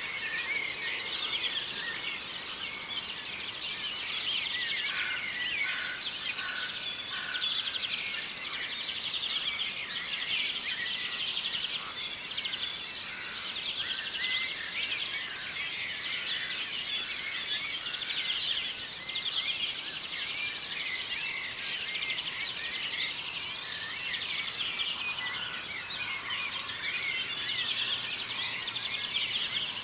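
Morning chorus of many songbirds singing and calling over one another in a dense, continuous tangle of chirps and trills.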